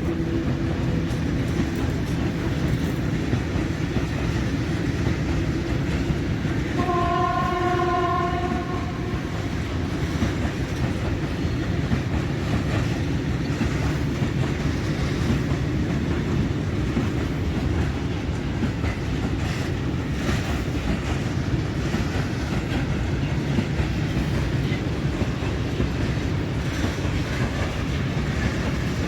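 Freight train of open coal wagons rolling steadily through a station, a continuous rumble of wheels on rail. About seven seconds in, a train horn sounds once for about a second and a half.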